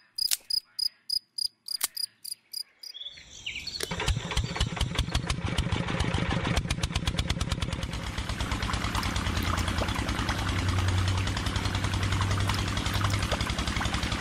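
A run of short, evenly spaced clicks, about five a second. About three seconds in, a small electric motor starts up and runs with a fast, steady buzz.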